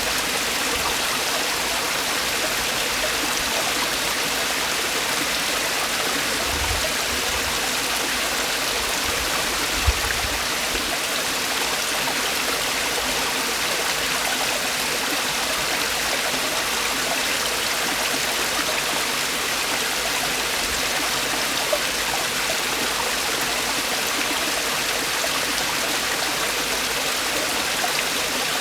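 Mountain valley stream falling over rocks: a steady rushing of water, with a couple of faint low thumps about a third of the way in.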